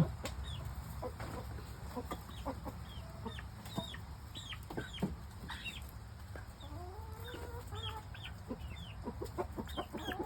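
Chickens clucking as they eat papaya: many short, high calls that fall in pitch, with a few lower drawn-out clucks and scattered soft clicks.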